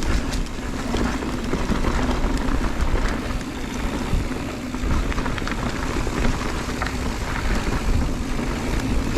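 Wind rushing over the camera mic and mountain-bike tyres rolling fast over a dirt and rock trail, with the bike rattling and clicking over bumps.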